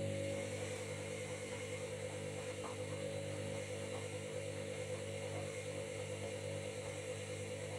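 Washing machine running with a steady mechanical hum and whir, its motor or pump holding an even pitch.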